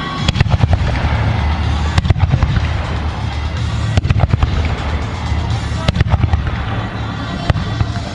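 Fireworks display: sharp bangs of aerial shells bursting about every two seconds, with dense crackling between them over a steady low rumble.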